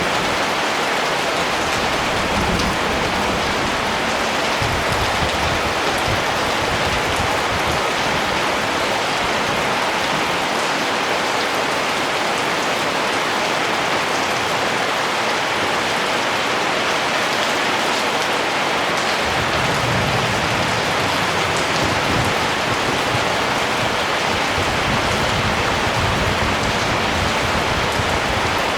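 Steady rain falling, an even hiss of many drops on surfaces, with a low rumble that swells in and out now and then.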